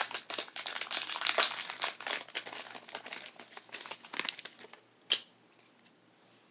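Foil Pokémon booster pack wrapper crinkling and rustling as the cards are handled, stopping about five seconds in, followed by a single sharp tick.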